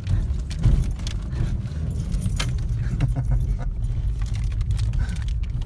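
Steady low rumble of a car on the move, with frequent metallic clinks and rattles over it.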